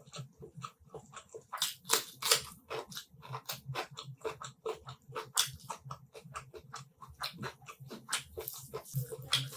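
Close-up mouth sounds of a person eating chicken curry with rice: chewing, biting and wet smacking, as rapid irregular clicks with a few louder bites.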